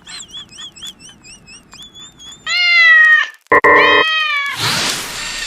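A cat meowing loudly twice in the middle, the first call slightly falling in pitch and the second shorter and flatter. Before the meows there is a faint, fast, warbling high chirping, and near the end a burst of hissing noise.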